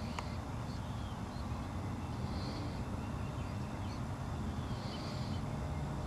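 Birds calling in the trees: three short buzzy calls about two and a half seconds apart, with a few faint thin chirps, over a steady low rumble.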